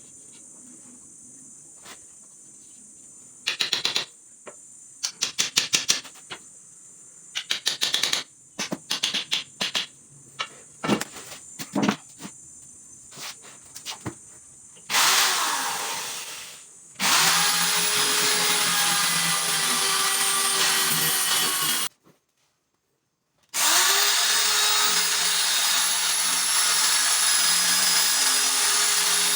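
Woodworking power tool running steadily under load for several seconds, stopping abruptly, then running steadily again. Before it comes a faint steady high hiss with short bursts of rapid clicking, then a brief loud noisy run that fades.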